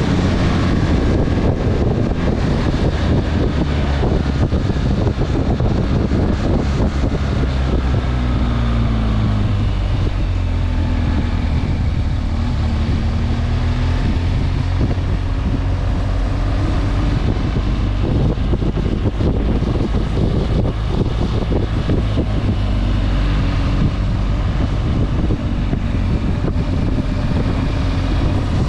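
Motorcycle engine running under way, its pitch rising and falling gently as the speed changes, with wind buffeting the microphone.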